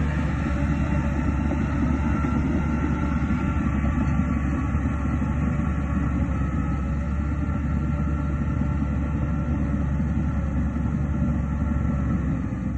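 Heavy diesel machinery running steadily, most likely the Shantui DH17C2 crawler bulldozer at work: a constant deep engine rumble with a faint high whine over it.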